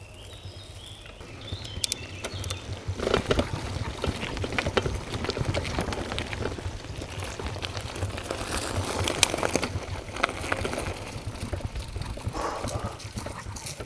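Bicycle being ridden over a rough path: a steady low rumble of wind on the bike-mounted microphone, with rattles and knocks from the bike that grow busier about three seconds in.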